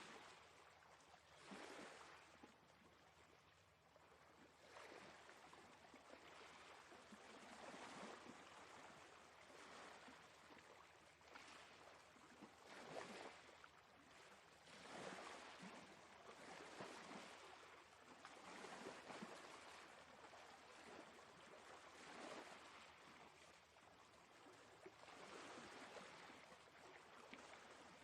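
Faint sea water washing and lapping, rising and falling in repeated surges every second or two.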